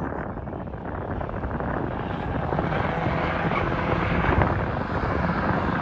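Truck engine running hard, a steady rumbling noise that swells about halfway through.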